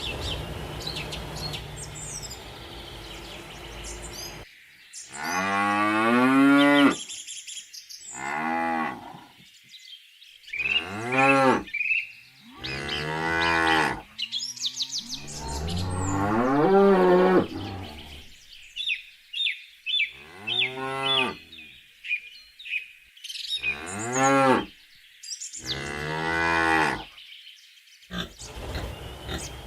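Dairy cows mooing: a series of about eight long, drawn-out moos with short gaps between them, after a few quieter seconds at the start.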